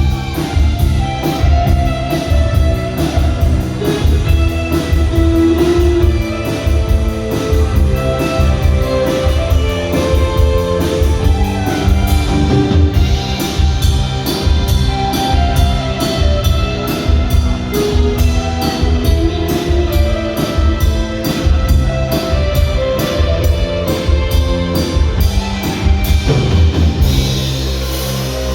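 Thai string band's rock music playing as an instrumental passage with no singing: drum kit with a fast steady cymbal beat under guitar and other instruments. The drums drop out about a second and a half before the end.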